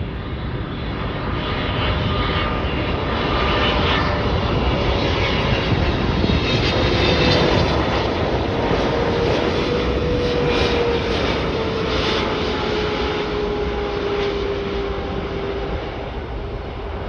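Boeing 777-300ER's GE90 jet engines passing on landing approach: a steady rushing jet noise that swells to its loudest about seven to ten seconds in and then eases a little, with a whine slowly falling in pitch.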